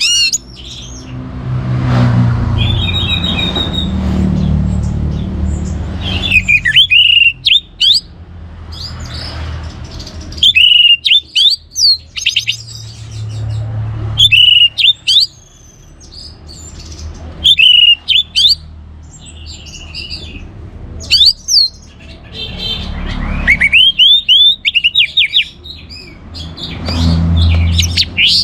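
Orange-headed thrush singing loud, rapid phrases of high whistled notes, repeated every few seconds, with a low rumble in the pauses between phrases.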